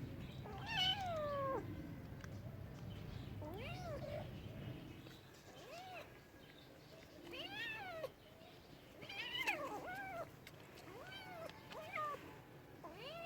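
A domestic cat meowing repeatedly: about eight separate meows, the first a longer one falling in pitch, the rest shorter and rising then falling.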